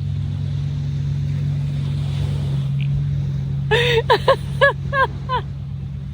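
Steady low motor hum, with a quick run of about six short pitched calls, each rising and falling, about four seconds in.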